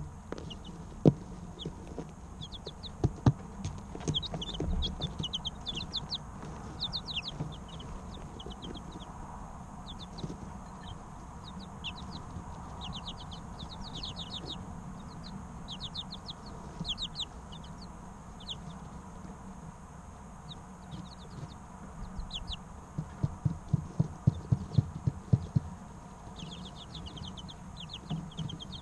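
A group of three-week-old chicks peeping: short, high, falling chirps in overlapping runs throughout. Sharp taps cut through, a few in the first seconds and then a fast run of them about three quarters of the way through, louder than the chirping.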